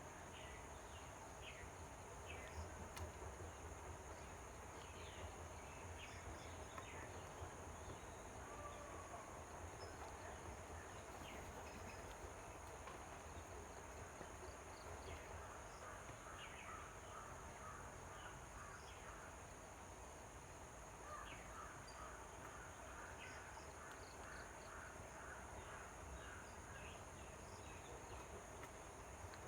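Faint outdoor ambience with scattered distant bird chirps, and two runs of a rapidly repeated chattering call, one past the middle and one in the last third.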